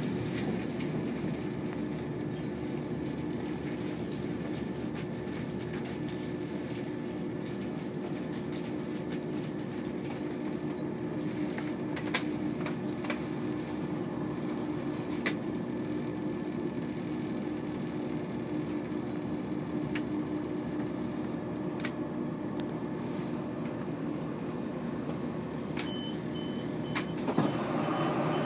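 Inside a diesel passenger train running and slowing into a station: a steady engine and running hum with a few sharp clicks from the track. Near the end a faint high whistle sets in and the noise swells briefly.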